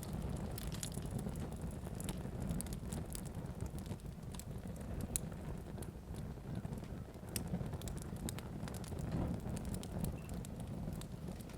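Fire burning with a steady low rumble and irregular sharp crackles and pops.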